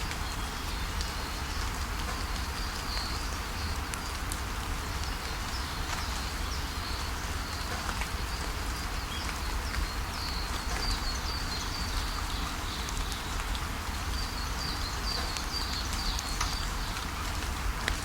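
Steady rainfall with a low rumble underneath, and small birds giving runs of short, high chirps every few seconds.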